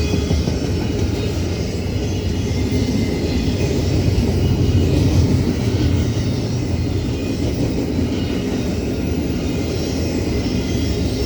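Union Pacific double-stack container train rolling past: a steady rumble of wheels on rail, swelling slightly around the middle, with a faint high whine over it.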